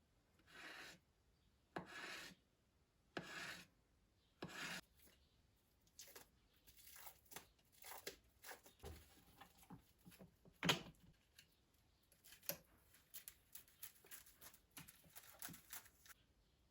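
Faint kitchen food-preparation sounds: four rasping strokes about a second apart, then a run of light taps, clicks and short scrapes, with one sharper tap about two thirds of the way through.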